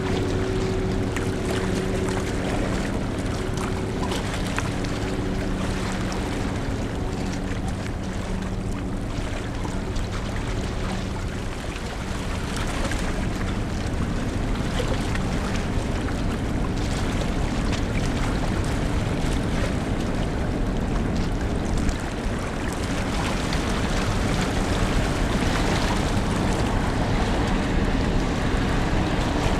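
Large car ferry's engines droning with a steady low hum that fades about halfway through, over a constant rush of wind and water.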